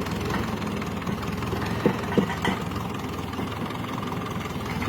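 Grey Ferguson tractor's engine running steadily at low revs, with two sharp knocks close together about two seconds in.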